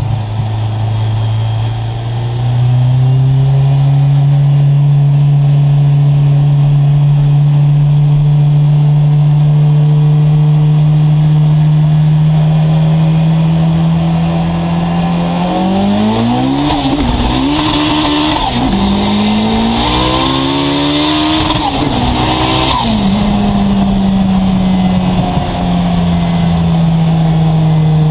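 A VW Golf Mk2's turbocharged engine heard from inside the cabin. It cruises with a steady note, then from about halfway accelerates hard, its pitch rising and dropping back several times through gear changes, with a loud high hiss while on boost. It settles back to a steady cruise near the end.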